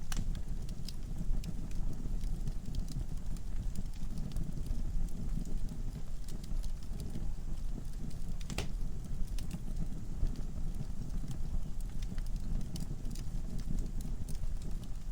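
Wood fire burning in a fireplace: a steady low rumble of the flames with scattered crackles and pops from the logs, one louder pop a little past the middle.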